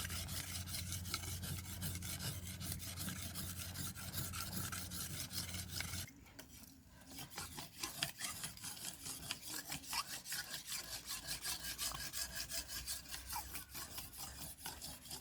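Steel panga (machete) blade being drawn repeatedly across a wet sharpening stone: a fast, even run of scraping strokes, with a brief pause about six seconds in before the strokes resume.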